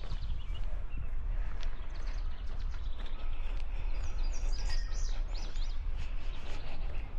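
Wind rumbling on the microphone, with songbirds chirping and whistling, busiest about halfway through.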